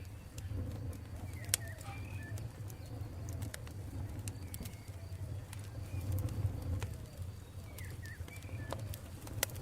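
Campfire crackling, with irregular sharp pops over a steady low rumble of the burning fire. Birds call now and then in the background, in short rising and falling calls.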